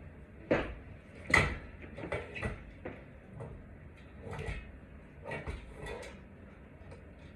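Irregular clicks, light knocks and brief scrapes of hands and tools handling parts during ceiling-fan wiring work, the two sharpest knocks about half a second and a second and a half in.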